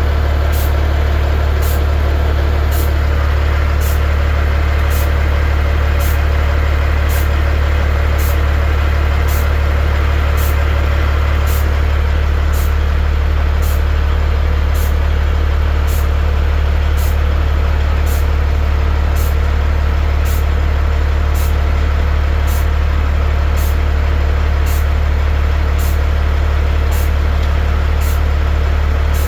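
Dump truck's diesel engine idling, a deep drone that holds steady throughout, with a faint regular tick about every 0.7 seconds.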